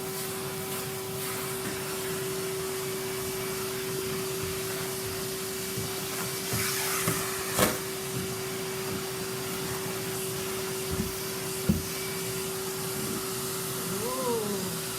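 Henry vacuum cleaner running steadily with a constant hum while sucking up large wood shavings, with two sharp knocks partway through.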